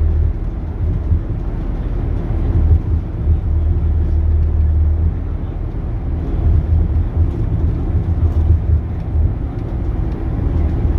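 Scania DC9 five-cylinder diesel engine of a Scania K280UB bus running, a steady low rumble that swells and eases slightly in level.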